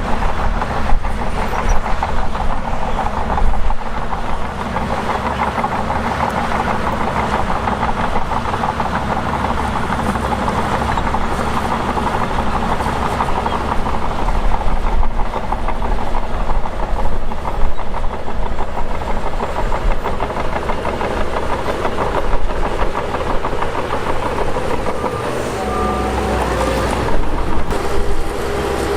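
Shantui DH17 bulldozer working, its diesel engine running loud and steady throughout.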